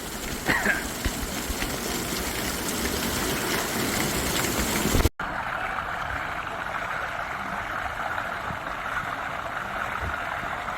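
Steady rush of flowing water, as at a water-park slide, slowly growing louder. About halfway through it cuts out for an instant, then goes on as a duller, steady rush.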